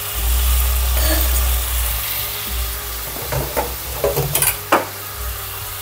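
Chopped tomatoes, onion and garlic sizzling in hot olive oil in a frying pan, a steady hiss. A few sharp clicks and taps from a utensil come through in the second half.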